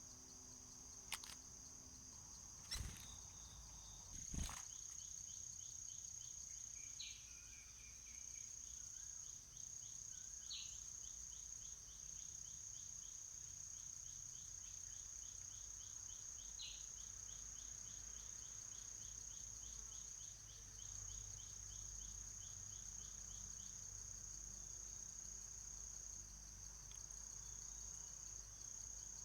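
Faint, steady high-pitched drone of insects such as crickets. For the first half a second insect chirps in a rapid, even pulse just below it. Three sharp clicks sound within the first five seconds.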